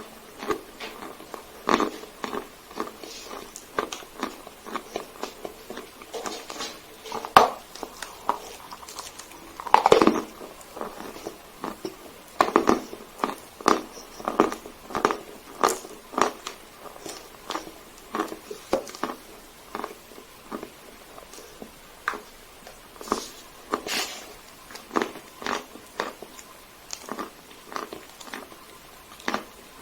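Dry Sevryukovo chalk being bitten and chewed close to the microphone: a steady, irregular run of crisp crunches, with a few louder bites along the way.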